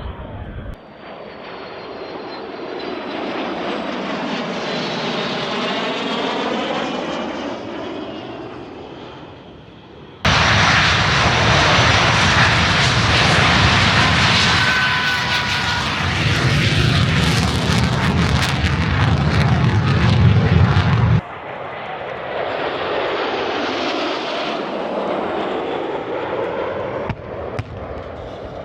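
Jet aircraft flying past an airshow crowd, heard as three flybys cut together. Each pass swells and fades with a shifting pitch; the middle one is the loudest, a dense roar that starts and stops abruptly.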